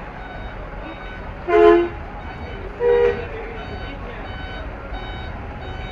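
Two short horn blasts from a truck, about a second apart and at different pitches, sound over a steadily repeating electronic beep like a reversing alarm and a background crowd hubbub.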